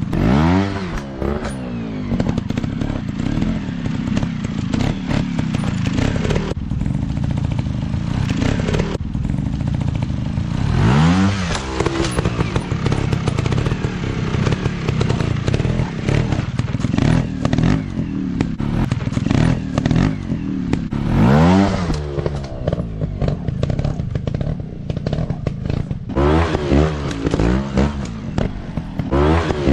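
Dirt bike engines running, the throttle blipped in sharp revs that rise and fall about half a second in, around 11 s and 21 s, and in a quick run of revs near the end, with clattering between.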